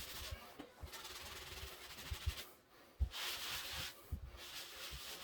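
Damp scrubbing sponge rubbing over a drywall patch, wet-sanding the joint compound in strokes with short breaks between them.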